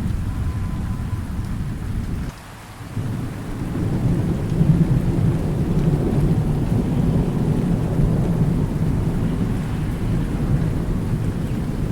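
Steady rain with a low, rolling thunder rumble underneath. The sound drops away abruptly for about half a second a little over two seconds in, then the rumble builds back up.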